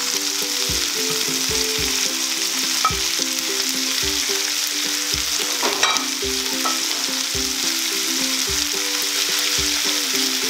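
Sayur asin (pickled mustard greens), tofu and shrimp sizzling steadily in hot oil in a nonstick frying pan as a spatula stirs them.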